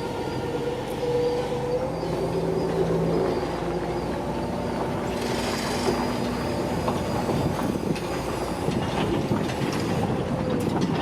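A heavy vehicle or machine running steadily, with repeated metallic knocks and rattles that grow busier in the second half.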